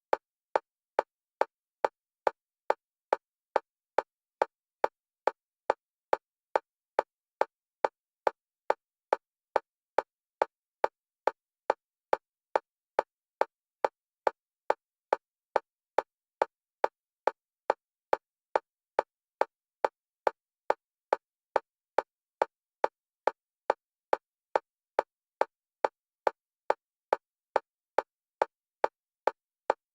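Metronome clicks for EMDR bilateral stimulation, alternating between the left and right channels. They come steadily, a little under two a second, with silence between.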